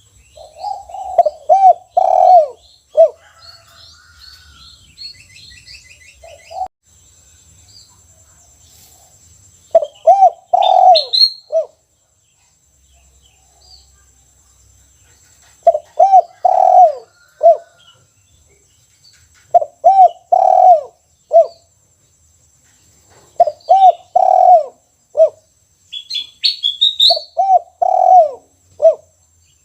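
Spotted dove (tekukur) cooing its 'kuk satu' song: about six phrases of several notes each, spaced a few seconds apart. Small birds chirp faintly at a higher pitch twice.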